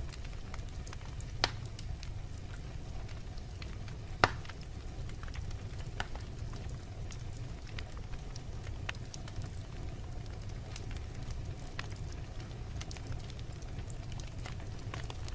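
Wood fire burning in a fireplace: a steady low rumble with scattered sharp crackles and pops, two louder pops about a second and a half and four seconds in.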